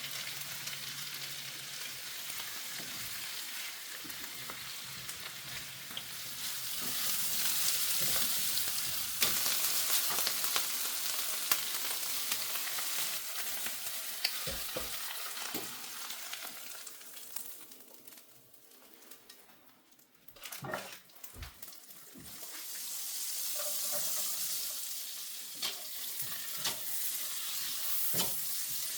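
Food sizzling in a hot frying pan, the hiss swelling louder twice and briefly dying down about two thirds of the way through, with a few sharp knocks of a utensil against the pan.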